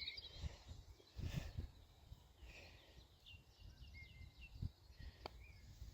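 Faint outdoor quiet: wind buffeting the microphone in uneven gusts, with a few small birds chirping in the middle. A single sharp click a little over five seconds in.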